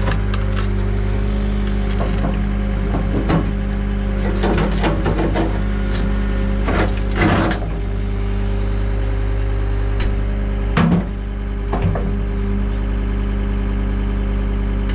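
John Deere 326D skid steer's diesel engine idling steadily. Over it come irregular sharp metal knocks and clanks from a pry bar working at the stuck quick-attach latch pin, the loudest about seven and eleven seconds in.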